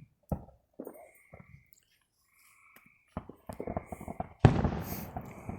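Fireworks going off: a run of sharp crackling cracks from about three seconds in, then a sudden loud explosion about a second before the end. A short high buzz repeats about once a second throughout.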